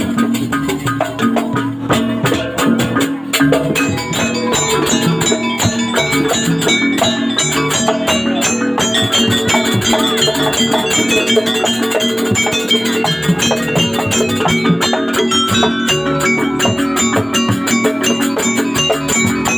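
Jaranan music ensemble playing a busy, steady beat, with struck percussion and pitched melodic notes throughout.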